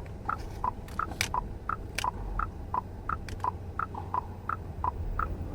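A car's electronic tick-tock indicator sound, short blips alternating between a higher and a lower pitch about three times a second, during an automatic parking manoeuvre, with a few sharp clicks among them.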